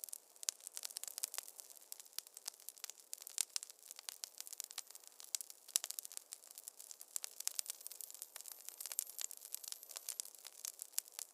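Wood fire in a fireplace crackling: a dense, irregular run of sharp pops and snaps over a soft hiss, with no low rumble.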